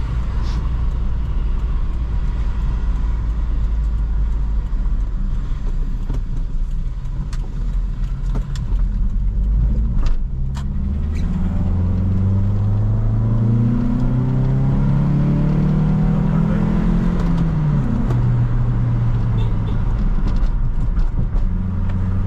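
2004 Toyota Corolla engine and road noise while driving: a steady low rumble at first, then about halfway the engine revs climb steadily under acceleration for about seven seconds. The revs then drop sharply, as at a gear change, and settle into a steady hum.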